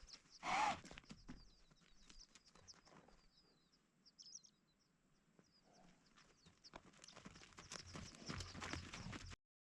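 Wild horses at a desert spring: one brief, louder horse sound about half a second in, then scattered knocks of hooves on rock that grow busier after about seven seconds, with small birds chirping. The sound cuts off abruptly near the end.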